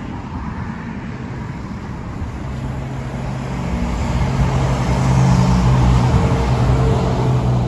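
A train passing close by as it takes the curve at the junction. A rushing noise builds to a loud peak about five to seven seconds in, with a steady low tone underneath from a couple of seconds in.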